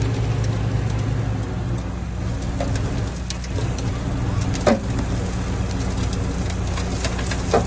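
Diesel engine of heavy earthmoving machinery running steadily, with two sharp metallic knocks, one a little after the middle and one near the end.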